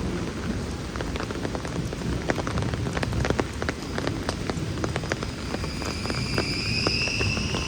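Heavy rain falling, with many sharp drop taps close to the microphone. A faint high whine comes in about two-thirds of the way through.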